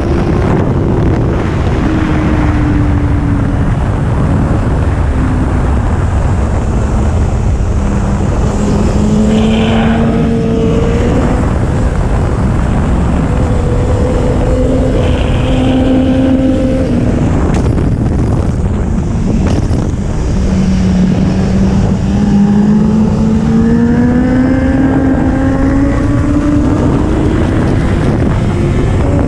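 2011 Kawasaki ZX-10R inline-four sport bike engine pulling under varying throttle, its note rising and falling, then climbing steadily in pitch over the last third. Heavy wind rumble on the microphone lies under the engine.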